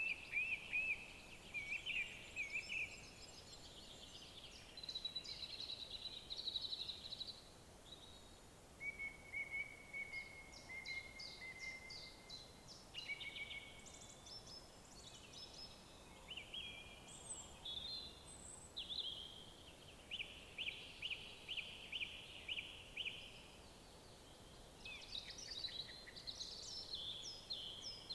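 Several songbirds singing in a forest, with repeated chirps and rapid trills coming one after another and sometimes overlapping.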